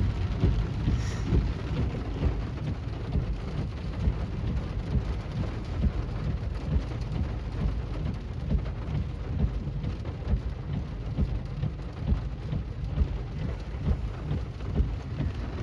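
Heavy rain drumming steadily on a car's roof and windshield, heard from inside the cabin, in a thunderstorm.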